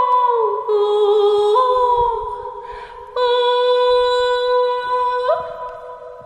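Kulning, the Scandinavian herding call: a high voice holding long, pure notes. The first note slides down at the start, steps up about one and a half seconds in and fades. A second long note follows about three seconds in, steps up near the end and fades.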